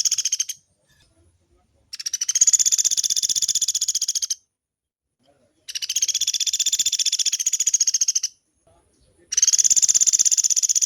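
Pelatuk beras woodpecker giving long, rapid rattling calls, each roll lasting about two and a half seconds and repeated after short pauses, three or four times.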